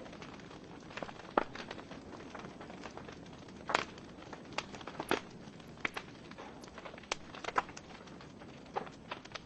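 Wood fire burning in a fireplace: burning logs crackling and popping irregularly over a low steady hiss, with a louder pop near the middle.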